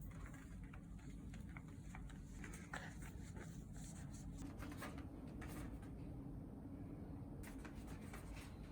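Faint scattered clicks and light rustles of handling in a small room, over a steady low hum.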